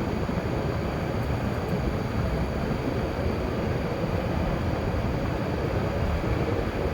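Steady road and tyre noise with a low rumble, heard inside a moving car.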